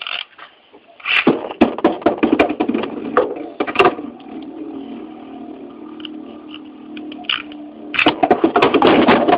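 Two metal-wheeled Beyblade tops, Cyber Pegasus and Lightning L-Drago, spinning and clashing in a plastic Beystadium. Rapid clacks of collisions start about a second in, give way to a steady spinning hum for several seconds, then a dense flurry of hard clashes near the end.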